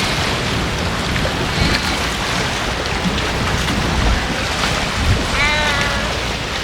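Strong wind buffeting the microphone, a steady rushing roar with heavy low rumble. A short high call is heard briefly about five and a half seconds in.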